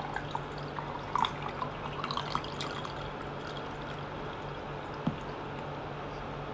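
Close-up eating sounds of fried chicken being chewed: a scatter of small wet clicks and smacks from the mouth, with a single soft knock about five seconds in, over a steady low hum.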